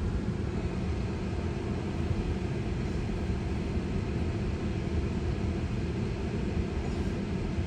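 Steady low rumble of tyre and road noise heard inside the cabin of a slowly moving Tesla electric car.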